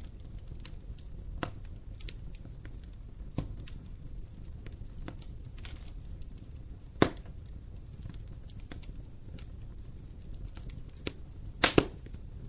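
Wood fire burning in an open fireplace: a steady low rumble with scattered crackles and snaps, a sharp pop about halfway through and a loud double pop near the end.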